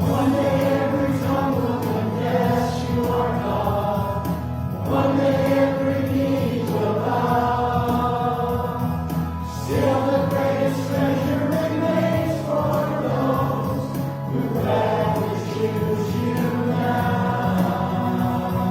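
A group of voices singing a slow hymn together over steady instrumental accompaniment, in long held phrases about five seconds each.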